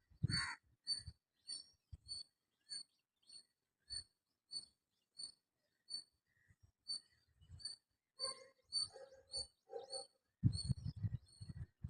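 A robin giving a short, high chirp over and over, about one every two-thirds of a second. Near the end a louder, harsher burst of sound comes in.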